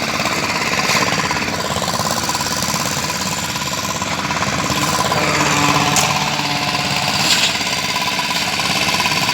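Construction machinery running steadily with a fast, dense rattle and a steady whine, with a few sharp knocks.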